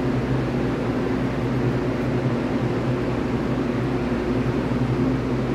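Steady machinery hum of a standing electric push-pull Tze-Chiang train, with several low tones held level under a broad hiss and no change in pitch.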